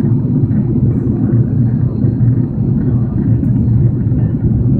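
Steady low rumble of an Airbus A330-300 airliner's engines and airflow, heard from inside the passenger cabin during the descent for landing.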